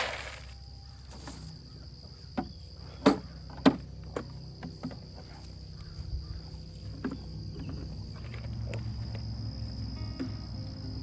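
Insects trilling steadily in one high, thin tone, with a few sharp knocks about two to four seconds in.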